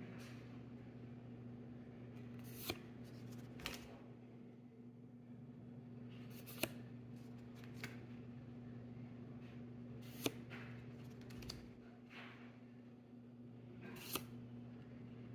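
Trading cards from a Yu-Gi-Oh booster pack being handled and flipped through, with about six sharp card snaps a few seconds apart, over a steady low hum.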